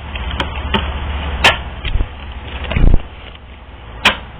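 Scattered sharp clicks and taps of reading cards being handled on a table, with a louder dull thump about three seconds in, over a steady low hum.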